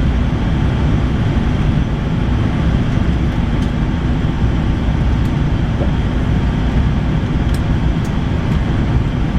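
Steady low rumble of an Airbus A380-800's cabin noise, engines and airflow, with a faint steady hum, as the aircraft taxis after landing.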